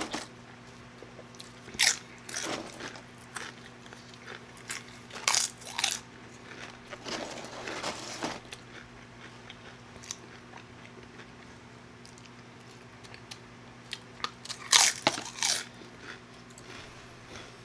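Close-miked chewing and biting of crisp tortilla chips: sharp crunches come in clusters with quieter chewing between, the loudest cluster near the end, over a faint steady hum.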